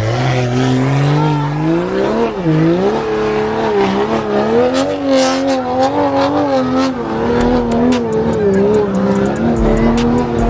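A car engine revving hard: its pitch climbs over the first two seconds, dips briefly, then is held at high revs, wavering up and down, with tyres squealing.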